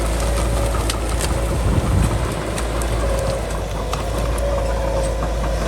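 Crawler bulldozer's diesel engine running steadily under load, with a whine that comes and goes and scattered sharp clicks and cracks. The engine surges briefly about two seconds in.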